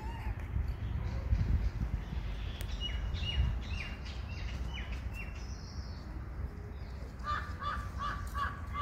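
Birds calling over a steady low rumble: first a run of about eight short calls, each falling in pitch, then near the end a quicker series of about six repeated notes.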